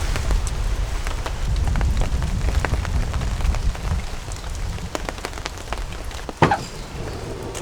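Rain falling, with many individual drops tapping in quick, irregular succession over a low rumble, and one sharper, louder tap about six and a half seconds in.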